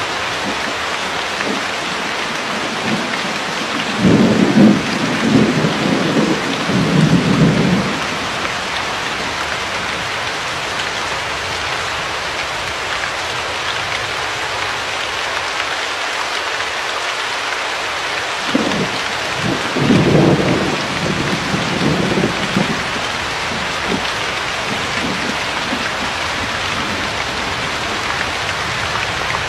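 Steady rain falling hard, an even hiss, with two low rolls of thunder, the first about four seconds in and lasting about four seconds, the second about twenty seconds in.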